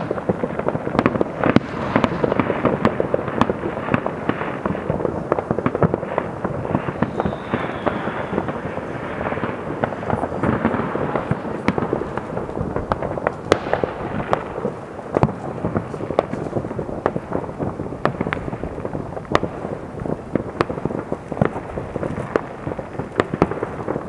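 Many distant fireworks going off across a town at once. They make a continuous rumbling crackle with frequent sharp bangs, irregular and overlapping.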